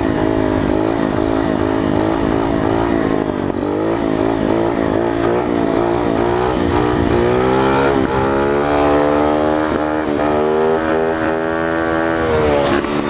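Coolster 125 pit bike's small single-cylinder four-stroke engine running under way, the revs rising and falling with the throttle. It climbs to a higher pitch about halfway through, holds there, then drops back near the end.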